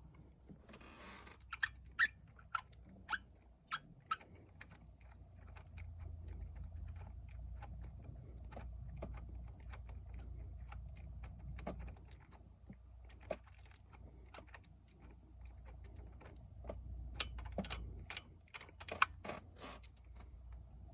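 Scattered sharp metallic clicks and clinks of a ratchet, socket and spark plug being handled while a new spark plug is fitted into the engine, several in quick succession near the start and again near the end, with a low rumble in between.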